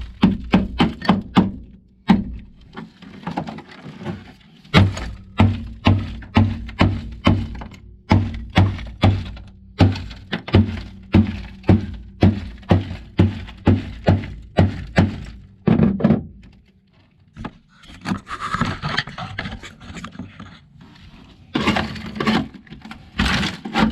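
A hammer striking dry-ice-frozen sound-deadening mat on a car's floor pan again and again, about two to three blows a second, to break the brittle mat loose from the metal. Near the end the blows give way to rougher crunching as pieces crack and break up.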